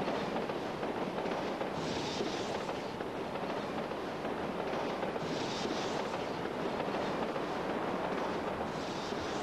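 Steady rushing running noise of a moving electric commuter train, heard from on top of it, with a brief higher hiss returning every three to four seconds.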